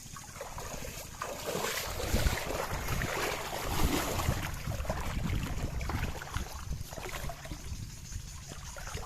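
Water splashing and sloshing, louder and busier through the middle of the stretch.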